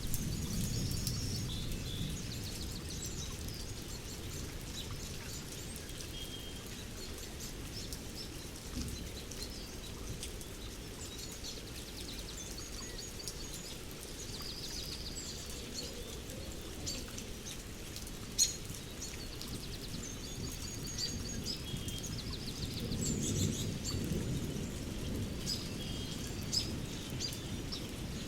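Steady rain with birds singing and chirping throughout, and low thunder rumbling as it begins and again about two-thirds of the way through. One sharp click a little past the middle.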